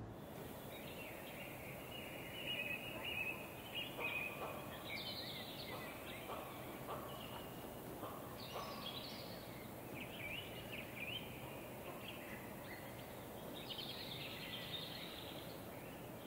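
Birds chirping and twittering in short high calls, with a few lower calls in the first half, over a faint steady background noise.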